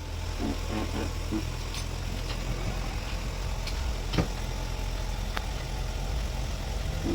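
A steady low engine-like hum, like a motor idling, with a few sharp knocks; the loudest knock comes about four seconds in.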